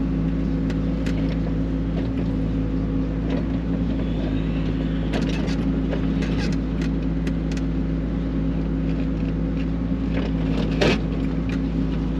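XCMG XE55U mini excavator's diesel engine running steadily while digging, with scattered clanks and scrapes of the bucket against rock and one loud knock near the end.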